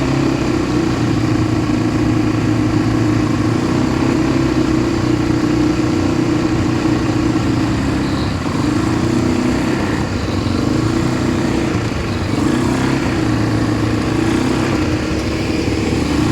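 ATV engine running steadily while being ridden, its pitch wavering up and down a little in the second half as the throttle changes.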